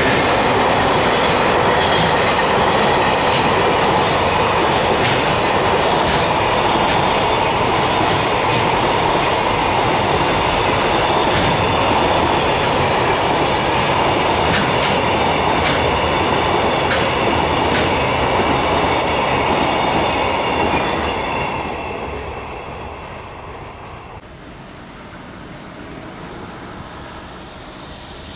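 Long string of freight container flatcars rolling past at speed: a steady heavy rumble of wheels on rail, with sharp clicks over rail joints and a faint high ringing above it. The rumble fades away from a little over twenty seconds in.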